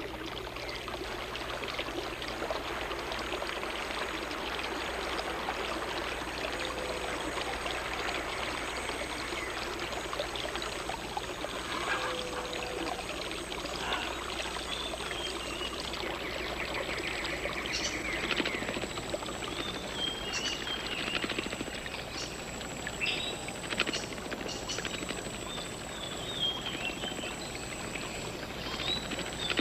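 Running water, a steady rushing sound, with short high chirps and clicks of forest birds or insects joining in the second half.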